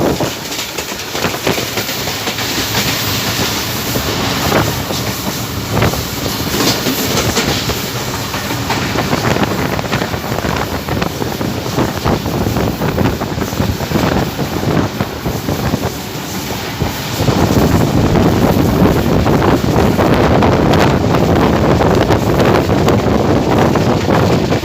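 Passenger train behind a GEU-20 diesel-electric locomotive running at speed, heard from aboard: wheels clattering over the rail joints under a steady rushing noise. The noise grows louder and heavier about two-thirds of the way through.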